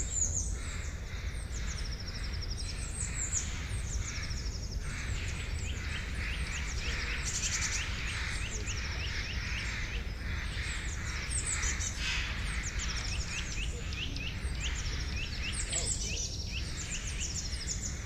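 Many songbirds chirping and singing together in a chorus of quick, high, overlapping notes that sweep downward, with no pause, over a steady low rumble.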